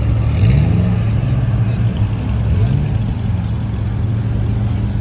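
A car engine running steadily, with two short rises in pitch, about half a second in and again about two and a half seconds in, as it is revved.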